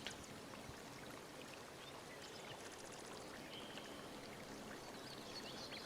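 Faint, steady rushing background noise, with a few small high chirps.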